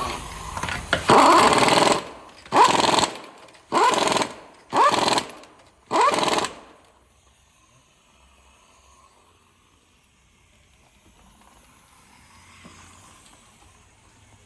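Impact wrench run in about five short bursts, each starting with a rising whine as the motor spins up and then hammering; it stops after about seven seconds, leaving a faint hum.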